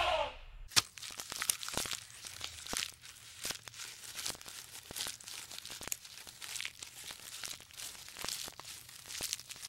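A giraffe stripping leaves from a tree: an irregular run of crisp crackles, tearing and crunching snaps from the leaves and twigs. At the very start, the end of a louder animal call fades out.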